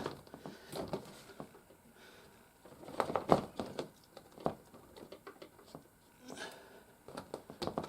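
Hard plastic toy playset parts being handled and forced together, with scattered clicks and small knocks, the loudest cluster about three seconds in, as the plastic bends under pressure.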